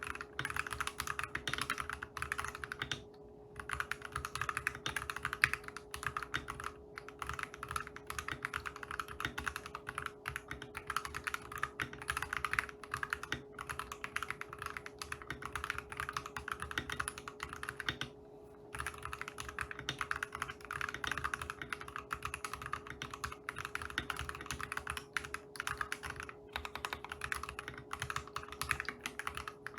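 Custom keyboard being typed on in fast, continuous keystrokes, breaking off briefly about three seconds in, around eighteen seconds and near twenty-six seconds. A faint steady hum runs underneath.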